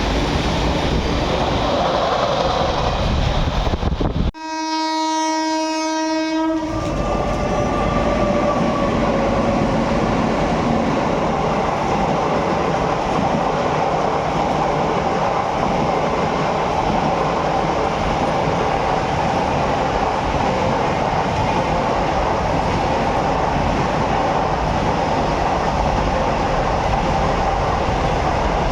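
A freight train runs past with a steady rumble and wheel clatter. About four seconds in the sound cuts, and an Indian WAG9 electric locomotive sounds its horn for about two seconds as one steady chord. The train's rumble then carries on steadily.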